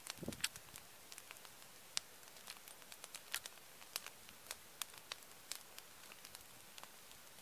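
Wood bonfire crackling: irregular sharp pops and snaps over a faint steady hiss, with a louder pop and a short dull rumble right at the start.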